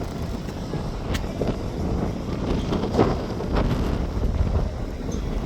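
Strong wind buffeting the microphone: a steady low rumble with a few brief louder gusts.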